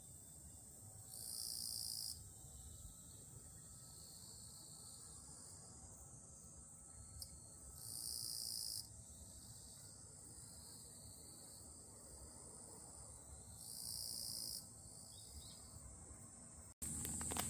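Crickets chirping in a steady high-pitched chorus. Three times, a louder insect buzz about a second long rises over it. Just before the end the sound cuts and a louder, noisier sound begins.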